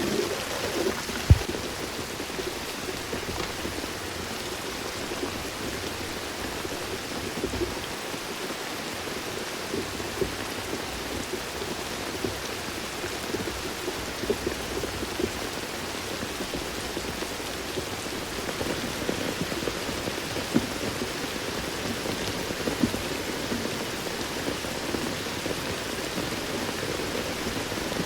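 Steady rain falling in forest, with scattered heavier drops tapping on surfaces and a sharp knock about a second in.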